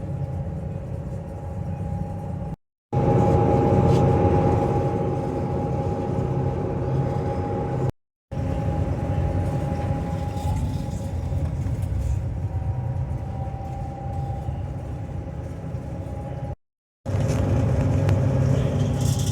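Steady low engine drone and hull rumble of a high-speed ferry under way, heard on board, with a few steady tones running through it. It cuts out briefly three times.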